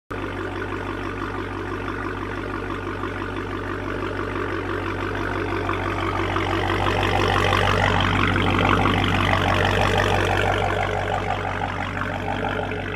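Dodge Charger Hellcat's supercharged 6.2-litre Hemi V8 running loud through its muffler-deleted exhaust with a deep, steady note. It grows louder toward the middle, then eases slightly near the end.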